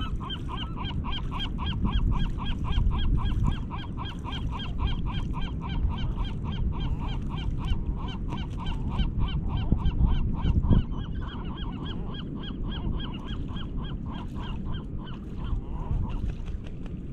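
Gull giving a long, rapid series of short call notes, about five a second, over a steady low rumble.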